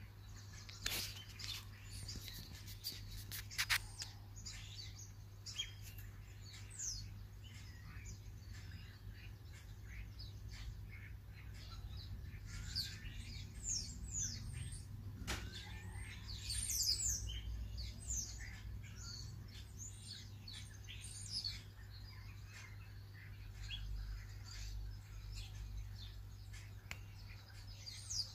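A flock of common starlings calling: many short whistles, a lot of them sliding downward, mixed with chirps and clicks, scattered throughout.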